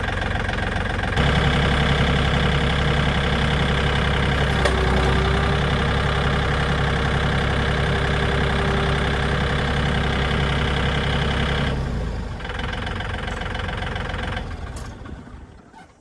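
Tractor engine running under load: it revs up about a second in, holds steady, drops back to a lower speed near the end, then stops and dies away.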